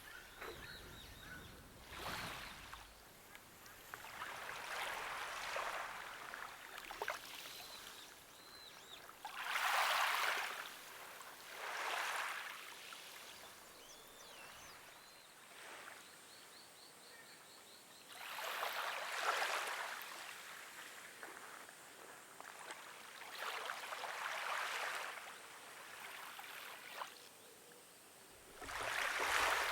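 Small waves washing onto the shore, each swell of rushing water rising and falling over a second or two, every few seconds, with a few faint bird chirps.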